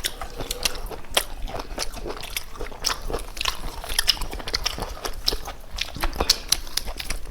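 Close-up eating sounds: chewing and biting chicken, with many irregular sharp clicks, smacks and crunches.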